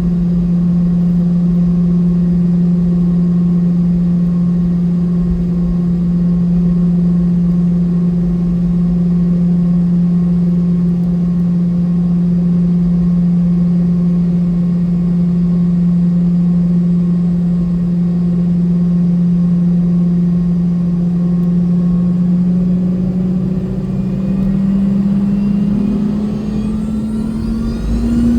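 The Boeing 717-200's two rear-mounted Rolls-Royce BR715 turbofan engines, heard inside the cabin, running with a steady low hum. In the last few seconds the hum climbs in pitch and a rising whine comes in as the engines spool up.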